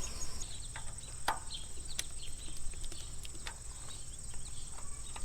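Insects in a summer field buzzing steadily at a high pitch, with a pulsing chirp that stops just after the start, and a few scattered sharp clicks.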